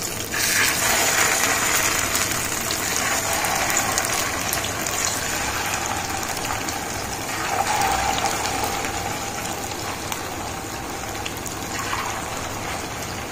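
Chicken kebab patties sizzling as they shallow-fry in hot oil in a pan. The sizzle swells each time another patty is laid in: just after the start, about halfway through, and near the end.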